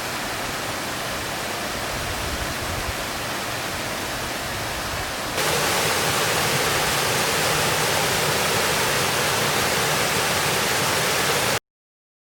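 Steady rushing water of a waterfall. It jumps abruptly louder about five seconds in and cuts off suddenly into silence near the end.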